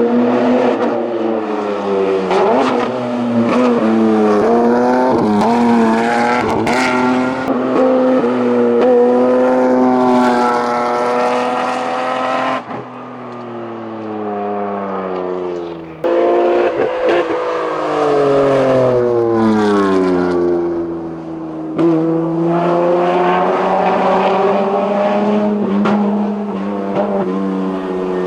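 BMW 320 (E21) hillclimb race car running flat out, its engine revs climbing and then dropping sharply at each gear change, several times over.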